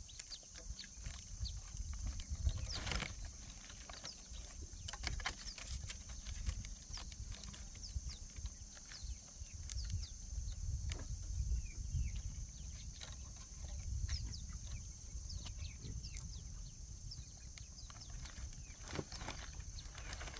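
Scattered light knocks and clicks at an irregular pace, over a steady high-pitched hum and a low rumble.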